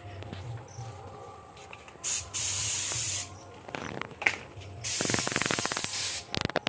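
Hissing spray in two bursts of about a second each, with a few clicks and rattles between them.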